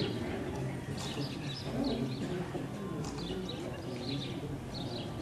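Birds chirping repeatedly in short bursts, over a low murmur of voices.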